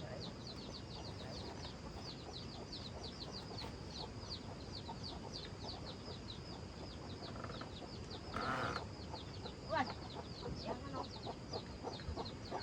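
Chickens: a steady, rapid, high-pitched peeping all through, with a few lower clucks near the end and a brief rustle about eight and a half seconds in.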